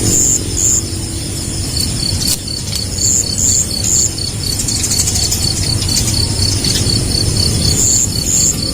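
Insects chirping in a steady, even train of short high pulses, about four a second, with short, higher buzzy bursts in groups of two or three.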